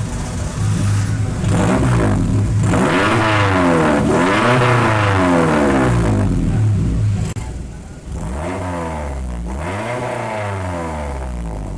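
Suzuki Esteem engine revved repeatedly through a valved cut-out exhaust, each rev a rising then falling pitch. About seven seconds in it turns noticeably quieter while the revving goes on, the sound of the exhaust valve switching from open race mode to closed silent mode.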